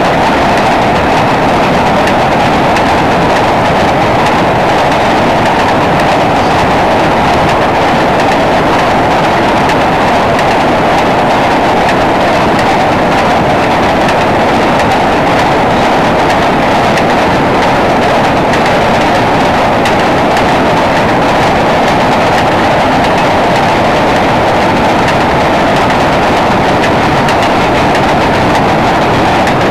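Freight cars rolling across a steel trestle bridge on jointed rail: a loud, steady noise of wheels on rail and bridge steel, with clicks from the rail joints.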